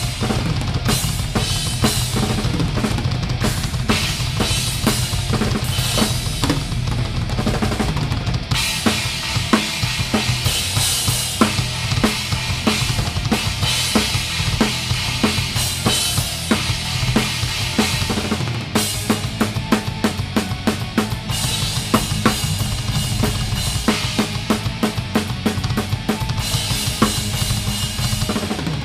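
Pearl Masters drum kit played live with a full rock band, heard close up from the drummer's position: fast, continuous kick drum and snare strokes over bass and guitars. The cymbals swell about eight seconds in and thin out again about ten seconds later.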